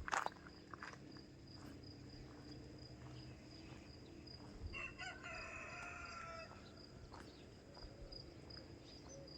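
A rooster crowing once, one call of about two seconds midway through, over a steady high chirring of insects such as crickets. A brief knock sounds right at the start.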